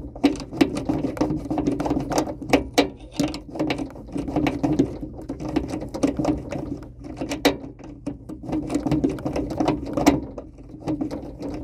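Hand tool ratcheting as a screw is turned out while mounting a capacitor: rapid, irregular clicks, over a steady low hum.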